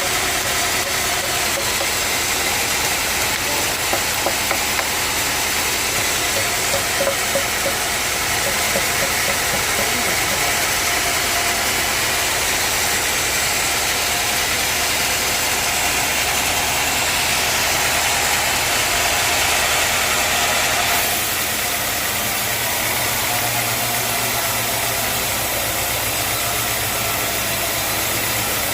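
Sawmill machinery running steadily, a loud engine-like drone with a strong hiss. About twenty seconds in, the high hiss drops off and the running sound continues lower.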